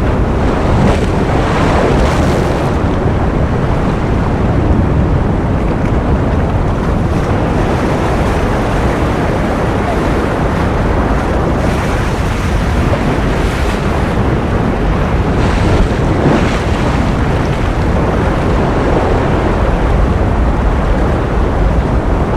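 Ocean surf: a steady, loud rush of waves, heaviest in the low end, swelling up a few times as waves break.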